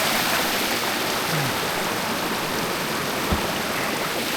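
Mountain creek flowing, a steady rush of water, with a single short knock about three seconds in.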